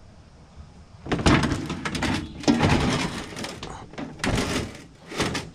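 Microwave oven being taken apart by hand: after about a second of quiet, a run of irregular knocks, clatters and scraping as its parts are pulled and shifted.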